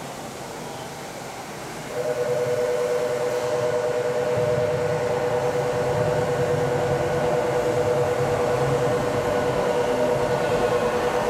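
Station platform departure signal: a steady two-tone electronic buzzer that starts suddenly about two seconds in and sounds continuously for about nine seconds, warning that the train's doors are about to close. Beneath it is the low hum of the stopped train.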